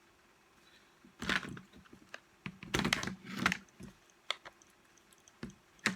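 Irregular clicking and clattering of small plastic and metal parts being handled, as the blade guide is worked into a reciprocating saw's gearbox housing; two bursts of rattling, then a few single clicks.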